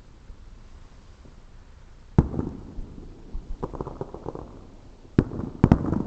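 Distant aerial fireworks: a sharp bang about two seconds in with a rumbling tail, a quick run of crackles a second and a half later, then three more bangs near the end, the last two close together.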